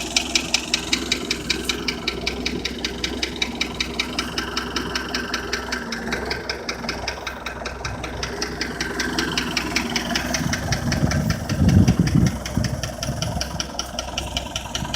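Engine of a homemade tractor running with a steady, even putter. About eleven seconds in, a louder low rumble swells for a second or two and then settles back.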